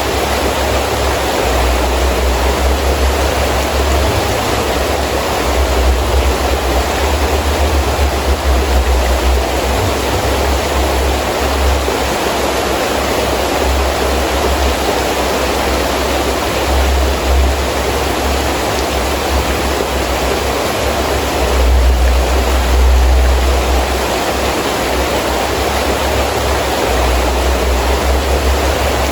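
Heavy rain falling steadily, with wind gusting in low rumbling swells that come and go; the strongest gust comes about three-quarters of the way through.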